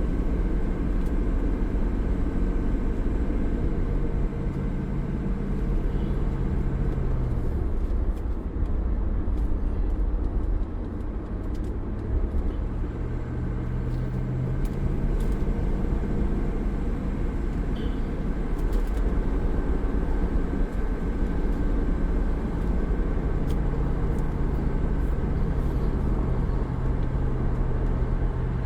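2004 Land Rover Discovery 2's V8 engine and road noise heard from inside the cabin while driving. The engine pitch drops about a quarter of the way in, climbs again shortly after, and changes once more later on.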